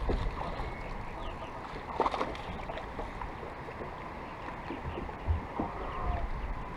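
Wind buffeting the microphone and choppy water lapping and slapping against a bass boat's hull, with two sharper knocks about two seconds in and a little past five seconds.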